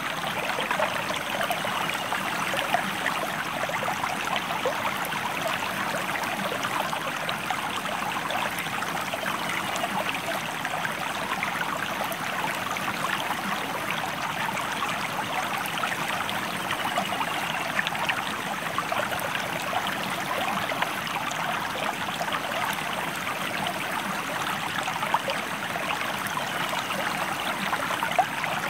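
A stream flowing steadily, a continuous rush of water with fine splashing and no change in level.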